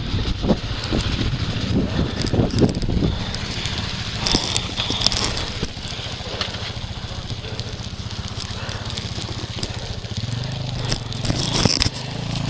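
Dirt bike engine running steadily, with scattered sharp knocks and crackles over it, the knocks clustered in the first few seconds and again near the end.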